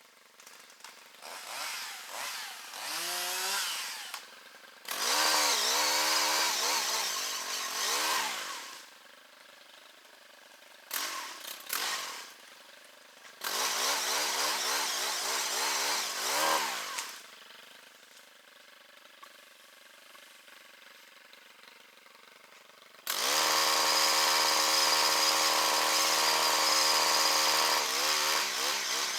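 Gas-powered two-stroke chain saw revving in repeated bursts, the engine pitch rising and sagging as it cuts into limbs. It drops back to a faint idle between cuts, then runs steadily at high revs for the last several seconds.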